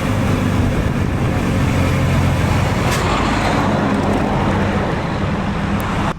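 Truck engine running steadily as the truck drives along the road, with road and tyre noise over it; the sound cuts off abruptly just before the end.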